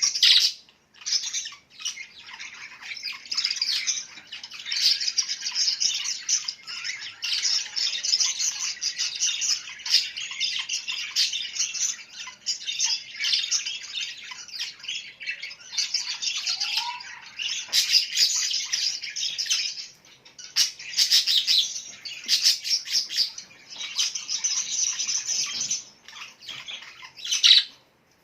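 Birds chirping and twittering in a dense, almost unbroken high-pitched chatter, with a brief lull about twenty seconds in.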